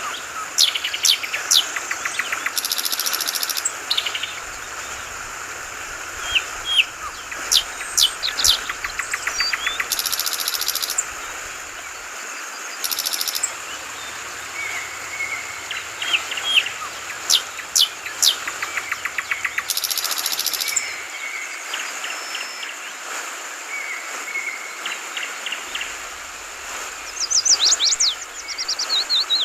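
Yellow-vented bulbuls calling in short, sharp chirps and quick trills, with a burst of rapid falling notes near the end, over the steady babble of flowing water.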